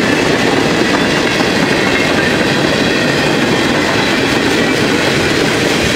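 Freight cars of a CSX manifest train rolling past at speed: a steady rumble and rattle of steel wheels on rail, heard through heavy rain.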